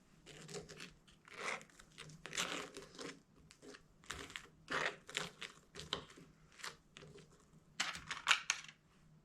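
Irregular crinkling and rustling, like packaging being handled, with a quick cluster of sharper crackles about eight seconds in, over a faint steady low hum.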